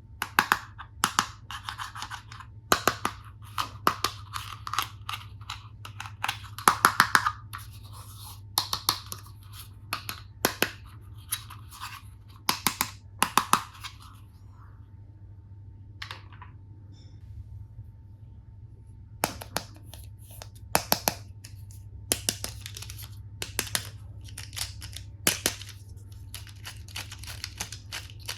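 Plastic toy tool pieces being handled: irregular clicks and taps, some in quick clusters, with scraping and rustling between them. A quieter lull comes about halfway through before the clicking resumes.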